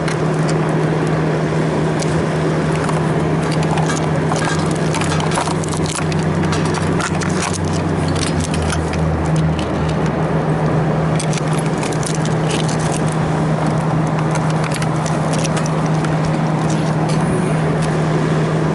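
Refrigerant recovery machine running steadily with a constant hum while reclaiming refrigerant from the system's low side, with scattered light clicks and taps.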